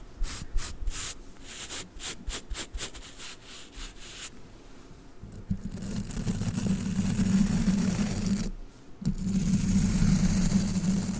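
Ladybug brush scratching and rubbing: quick, brief strokes in the first few seconds, then a steadier, deeper rubbing from about halfway, broken by a short pause and starting again.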